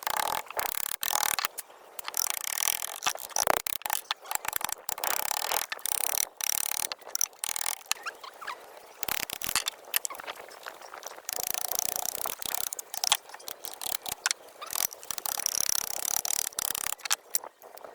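Irregular metal-on-metal scraping, squeaks and clicks of tool work on truck parts, coming in uneven bursts.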